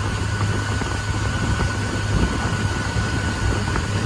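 Boat motor running steadily under way: a constant low hum with a steady rushing noise over it.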